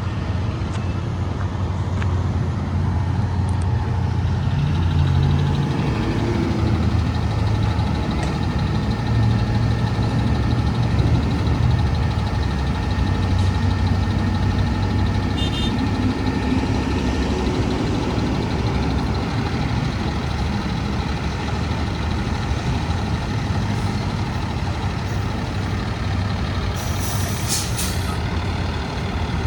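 Diesel engine of a Freightliner M2 grapple garbage truck running, its revs rising and falling a few times. Near the end comes a short hiss of escaping air.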